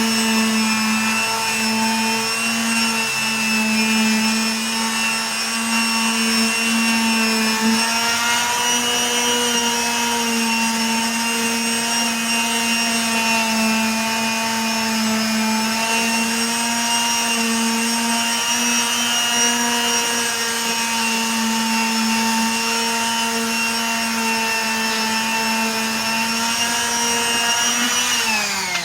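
Electric power tool motor running steadily at high speed with a constant whine, then switched off near the end, its pitch sliding down as it winds down.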